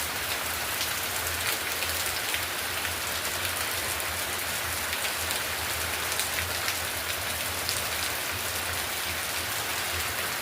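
Steady rain falling: an even hiss of rain with many sharp ticks of individual drops striking.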